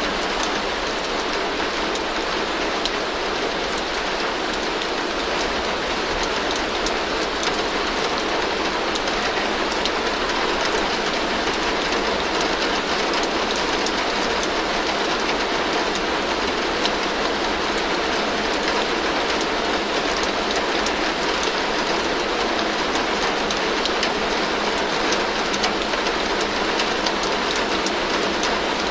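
Heavy rain falling steadily on a tin roof: a dense, even patter of drops drumming on the metal, with no pauses or changes.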